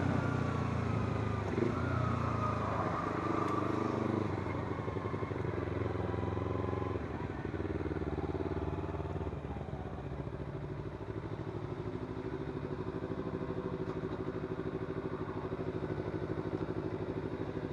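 Kawasaki Z250's parallel-twin engine running on the move. Its pitch falls and rises over the first few seconds, then it settles to a steadier, quieter note in the second half.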